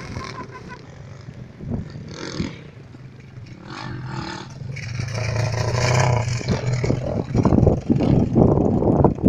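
Pit bike engine running at a distance, getting louder and rougher over the last few seconds.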